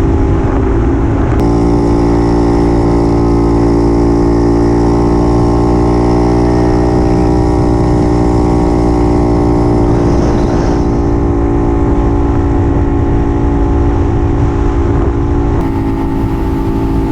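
Puch 250 TF's two-stroke split-single engine running steadily at cruising speed under way, with wind rumble on the microphone. The engine note shifts slightly about a second in and again near the end.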